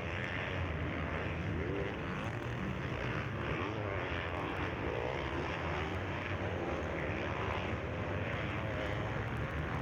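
Engines of several motocross bikes racing on a dirt track, revving up and down as riders accelerate and shift, their pitches rising and falling over one another.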